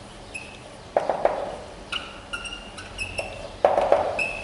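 Writing on a board: a few sharp knocks of the pen or chalk against the board, and several short, steady, high squeaks as it drags across the surface.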